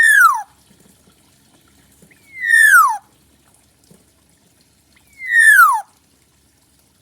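Black-naped oriole (kepodang) calling: a single whistled note that slides steeply down, repeated three times about two and a half seconds apart.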